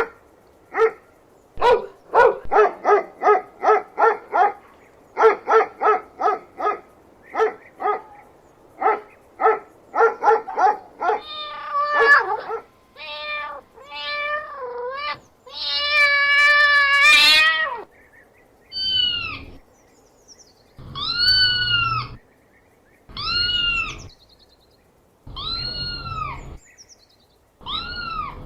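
A dog barking in quick runs of short barks. About ten seconds in, a domestic cat takes over: a few wavering meows, one long loud yowl, then single arched meows about two seconds apart.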